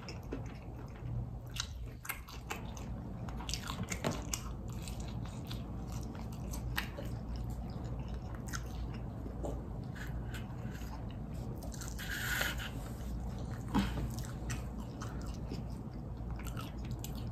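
A person chewing a mouthful of fried chicken food close to the microphone: repeated crunches and wet mouth clicks, with a short hiss about twelve seconds in.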